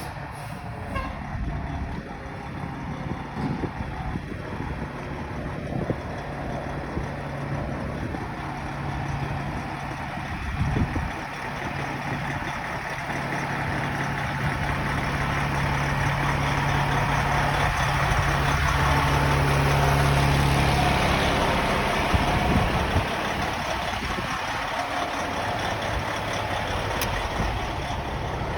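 A large truck engine, most likely a fire truck's, running steadily. It grows louder for about twenty seconds, then eases off, with a few knocks along the way.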